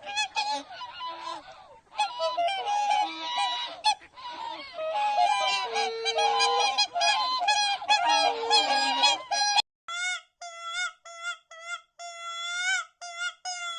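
Geese honking, many calls overlapping as from a flock. About two-thirds of the way through there is a cut to a single run of short, separate honks repeated in quick succession.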